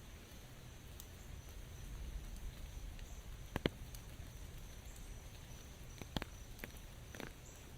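Light rain falling, an even hiss over a low rumble, with a few sharp louder taps of drops landing about halfway through and near the end.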